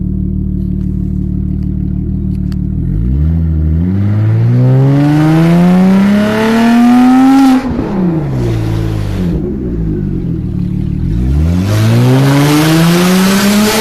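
VW Passat B5's 2.8-litre V6 running with no exhaust fitted: it idles steadily, then is revved up twice, its pitch climbing for about four seconds each time. After the first climb the throttle snaps shut about seven and a half seconds in and the revs fall back, and the second climb comes near the end.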